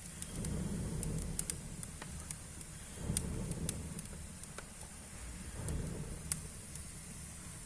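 Wood fire burning in a fireplace: a low roar of flames that swells and eases, with scattered sharp crackles and pops.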